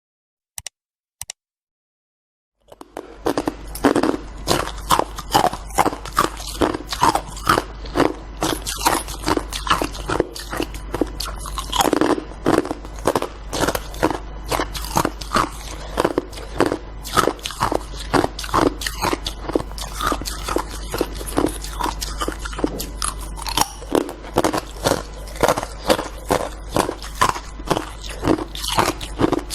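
Close-miked biting and crunching of hard white ice: a rapid, continuous run of loud crunches, about two or three a second, that starts a few seconds in after two short clicks, over a steady low hum.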